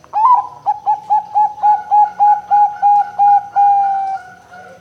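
Bangkok-type zebra dove (perkutut) singing: an opening note, then a quick run of about a dozen short, even coos, ending in a longer held note that falls slightly and fades.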